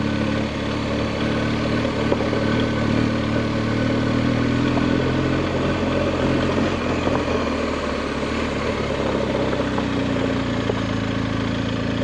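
BMW adventure motorcycle's engine running steadily under way at low revs, with a steady hiss underneath.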